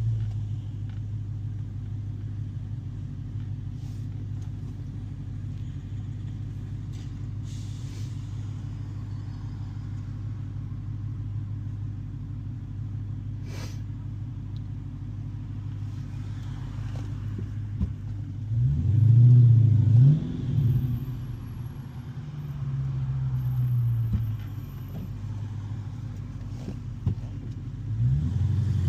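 2015 Dodge Challenger SRT Hellcat's supercharged 6.2-litre HEMI V8 running at a steady low drone. About two-thirds of the way through it revs up hard with rising and falling pitch, the loudest part. It revs again briefly a few seconds later and once more near the end.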